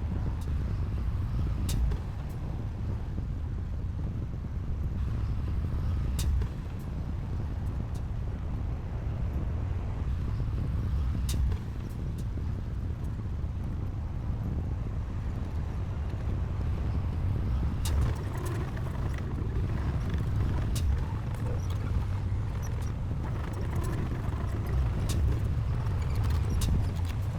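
Diesel engine of heavy earthmoving machinery running steadily with a low rumble, with scattered sharp clicks and clanks.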